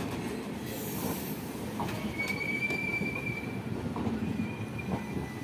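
Indian Railways LHB passenger coaches rolling past, with a steady low rumble and scattered clicks as the wheels cross rail joints. A thin high wheel squeal comes in about two seconds in for about a second, and again briefly near the end.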